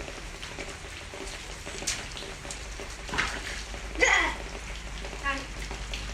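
Steady rain falling and pattering, an even hiss, with a few short voice sounds breaking in around the middle.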